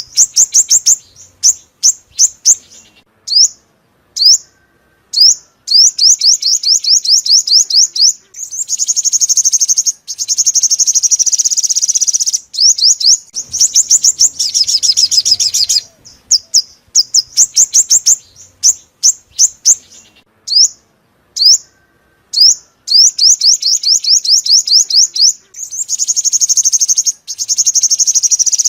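Sunbird song: quick series of high, sharp chirps broken by several fast, buzzy trills lasting two to three seconds each.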